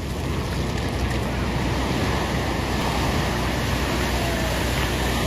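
Steady, loud rush of strong wind and surging sea, with the low end heavy, like wind buffeting a microphone.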